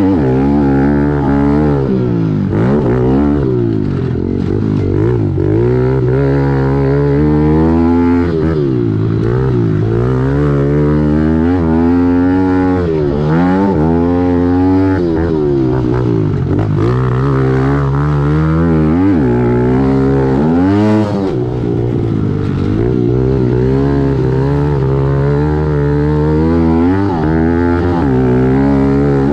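2017 Kawasaki KLX110L's small single-cylinder four-stroke engine racing around a motocross track, the revs rising and falling over and over as the throttle is opened and shut, with the engines of other pit bikes close by.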